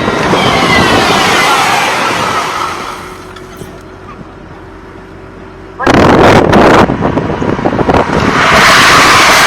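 A heavy truck at speed passes close, its noise falling in pitch as it goes by, then fading. About six seconds in, a sudden loud, clattering noise breaks out and stays loud.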